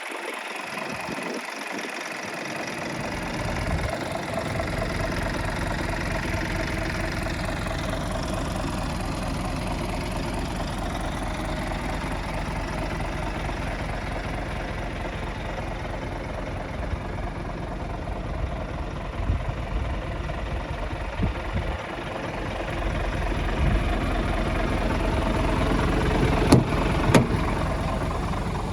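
Scania G360 truck's diesel engine idling steadily; its low rumble comes in about four seconds in. Two sharp knocks near the end.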